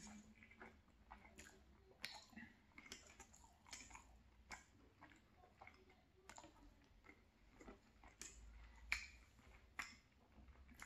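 Faint close-up chewing of food: soft, irregular wet mouth clicks and smacks, with one sharper click about nine seconds in.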